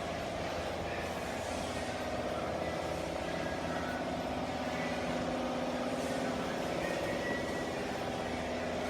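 Double-head aluminium cutting saw running, a steady unbroken machine drone.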